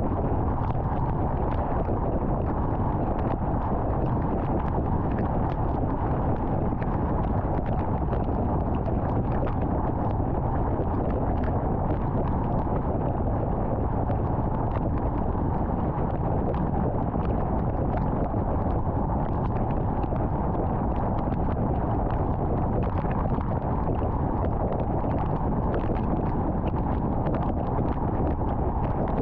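Car driving at highway speed: steady tyre and wind noise, with faint irregular ticks throughout.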